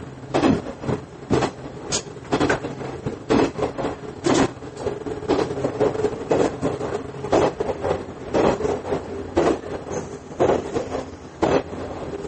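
Interior running sound of a KiHa 110 series diesel railcar: wheels clacking over rail joints about once a second, often in pairs, over a steady diesel and gear hum.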